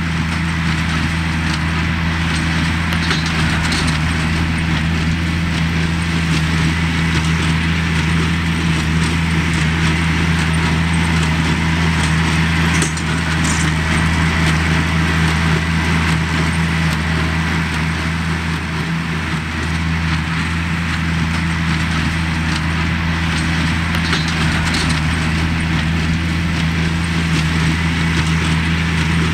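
Oliver 770 tractor engine running steadily under load, driving a Sperry-New Holland 276 Hayliner small square baler with a bale thrower, with the baler's clattering over it.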